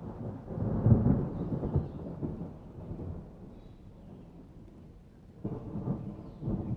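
Thunder rumbling in a summer thunderstorm: a loud peal that peaks about a second in and rolls away over several seconds, then a second rumble swelling near the end, over steady rain.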